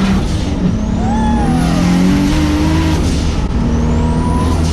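Toyota SC300's turbocharged 2JZ-GTE straight-six accelerating hard through the gears, its pitch climbing and then dropping at each shift, near the start and about three seconds in. A high whistle from the big T51R mod turbo rises as it spools, about a second in and again near the end.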